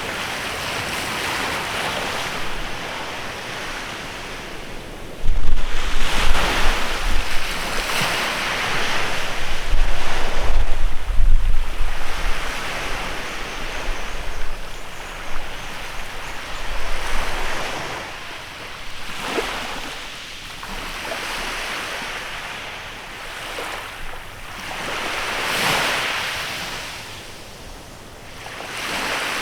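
Waves washing onto the shore of a bay, coming in slow surges that swell and fade. From about five seconds in, for some ten seconds, wind buffets the microphone with a loud low rumble.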